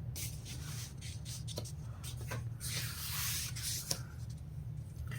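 Paper rustling as book pages are handled and turned: a few small taps and rubs, with a longer page-turn swish a little past halfway, over a steady low hum.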